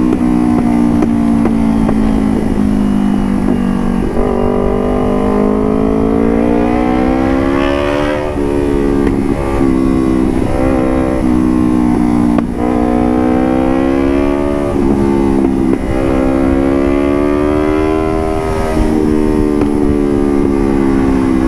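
Motorcycle engine running through an aftermarket Puresound carbon exhaust while riding, the revs climbing slowly in each gear and dropping back at a shift about every three to four seconds.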